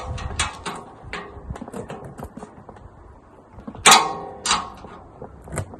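Metal stand parts and bolts clicking and knocking as they are handled and fitted together, with a loud ringing metallic clank about four seconds in and a smaller one half a second later.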